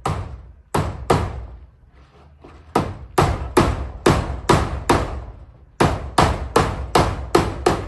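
Hammer driving nails into zinc roofing sheets: sharp ringing strikes, about three a second, in three runs with short pauses between.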